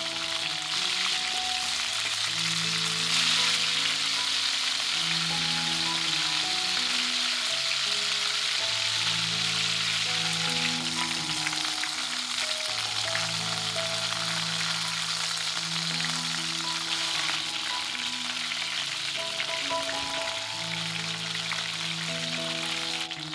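Chicken wings sizzling steadily as they pan-fry in hot oil, a dense crackling hiss that swells a little about three seconds in. Soft background music of slow held notes plays underneath.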